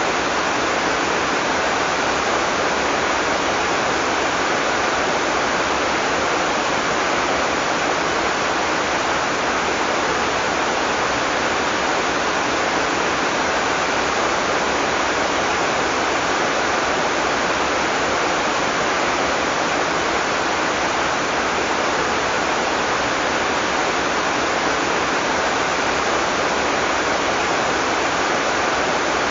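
Heavy tropical rain falling steadily, a dense, even hiss with no thunder.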